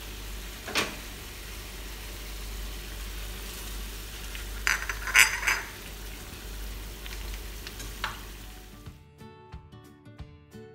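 Chilli sauce sizzling and simmering in a non-stick frying pan while a spatula stirs it, scraping and knocking against the pan a few times, most of all about five seconds in. About nine seconds in this cuts off and background music takes over.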